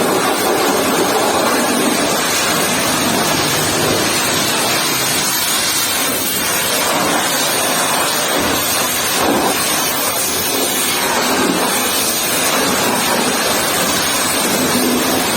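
Pressure washer's high-pressure water jet spraying a truck: a steady, loud hiss of water.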